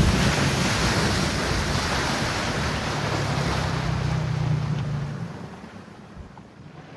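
Wind buffeting the microphone and water rushing past a moving boat, a steady rushing noise that dies down after about five seconds.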